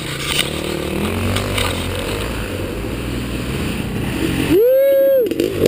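Dirt bike engine running at moderate revs with rumbling trail noise. About four and a half seconds in it revs up sharply, holds high for nearly a second, then drops back.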